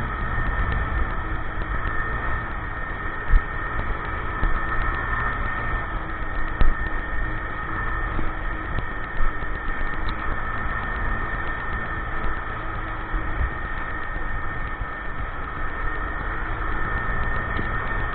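Motorcycle engine running steadily with a low rumble, and three brief knocks a few seconds apart.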